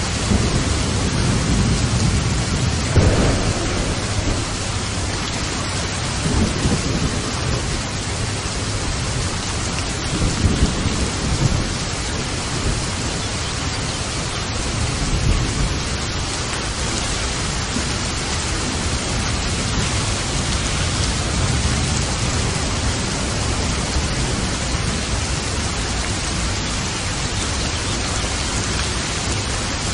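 Steady rain with several low rolls of thunder in the first half, the loudest about three seconds in.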